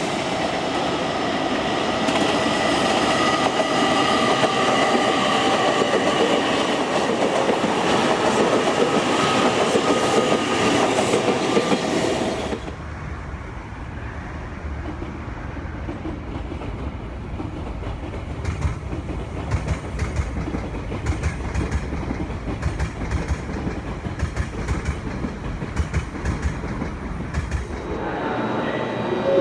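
JR Kyushu 885-series electric limited express train passing: close at first, with running noise and several steady whining tones. It cuts off suddenly to a more distant low rumble with repeated wheel clacks over rail joints.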